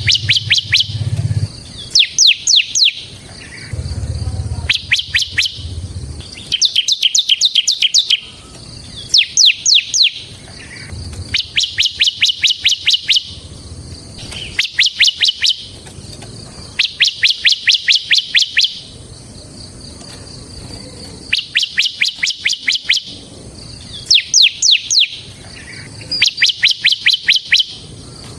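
Ciblek (bar-winged prinia) singing: repeated bursts of fast, sharp chip notes, each burst about a second long, coming every two to three seconds. A faint low rumble sits under the song near the start and again around five seconds in.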